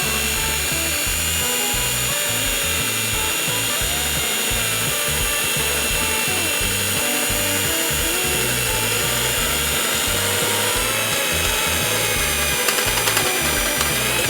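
Small electric motor whining steadily at high speed, its pitch sagging slightly late on, over background music with a beat.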